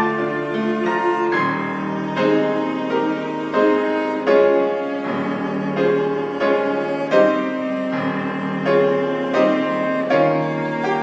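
Slow instrumental hymn accompaniment of piano with bowed strings, held chords moving note by note with no singing.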